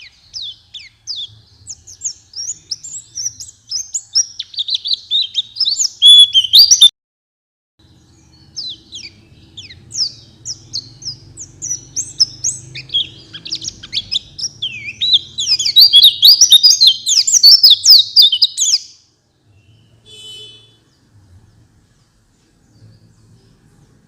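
White-eye (pleci) singing: long runs of rapid, high twittering song. A first run stops at about seven seconds, and a second, louder run picks up about a second later and cuts off near nineteen seconds. A short buzzy note follows about a second after that.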